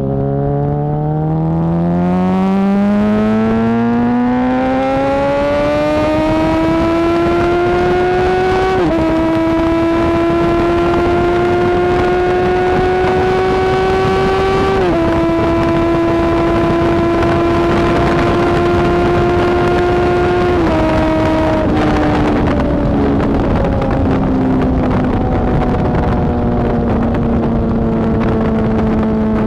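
2008 Yamaha R1 inline-four engine through a Toce T-Slash slip-on exhaust with the catalytic converter deleted, heard from onboard under hard acceleration. The note climbs steeply, drops with an upshift three times and climbs again after each, then falls away as the throttle is rolled off.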